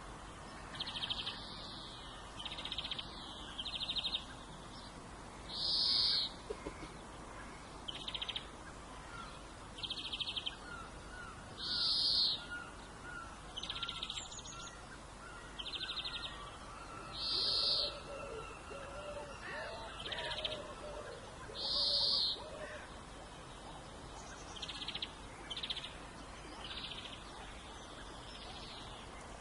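Steady rain falling, with a bird giving short, harsh calls every second or two, four of them louder than the rest and about five to six seconds apart. Fainter, softer bird chirps come in between.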